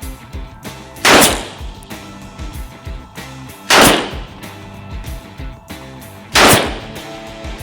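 Thompson Model 1928 submachine gun firing .45 ACP: three loud single shots about two and a half seconds apart, each with a trailing decay, over background music.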